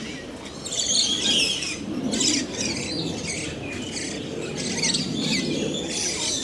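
A dense chorus of many birds chirping and twittering at once, with short, high overlapping calls throughout.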